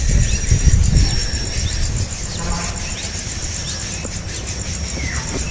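Outdoor ambience: a steady, pulsing high insect trill with short, scattered bird chirps, over a low rumble that is strongest in the first two seconds.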